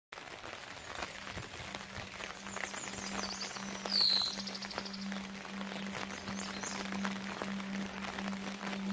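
Rain pattering in a forest, with a bird giving one falling chirp and a short trill about four seconds in. A steady low tone sets in about one and a half seconds in.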